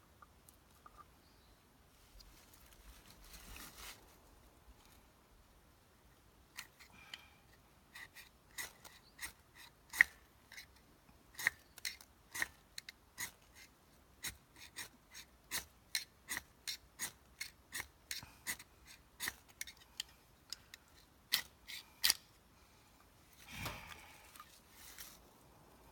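A ferrocerium fire-starter rod being struck over and over with a striker, short sharp scrapes about twice a second, while the tinder fails to catch. There is a brief rustle of handling near the start and again near the end.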